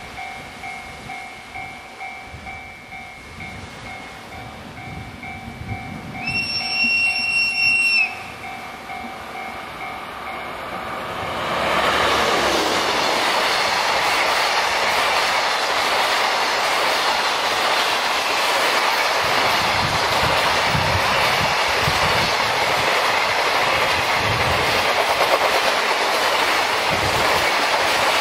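DF200 diesel-electric freight locomotive sounding its horn in one blast of about two seconds. A few seconds later it passes close by, and its loud engine and wheel noise runs on as a long train of container wagons goes by, clattering over the rail joints.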